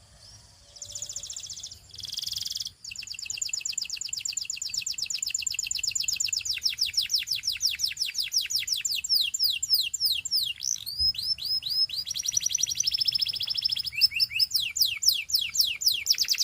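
Canary singing: after a brief quiet start, a long song of fast repeated high trills that changes phrase several times, with a run of slower downward-sweeping notes past the middle.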